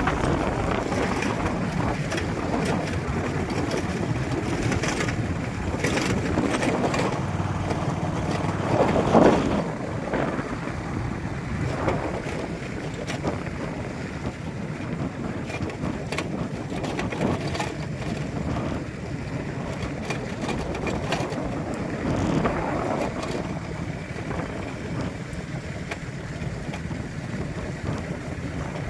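Steady rumble of a moving vehicle with wind buffeting the microphone, a little louder in the first third.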